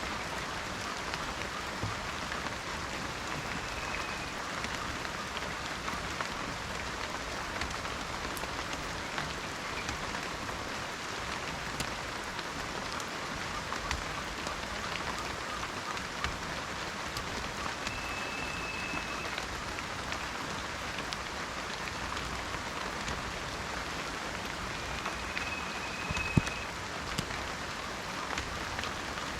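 Steady rain falling in a forest, a dense patter with individual drops ticking through it. Three brief, thin, high whistled tones come through the rain at about 3, 18 and 25 seconds in, and a single sharp knock or drip about 26 seconds in is the loudest moment.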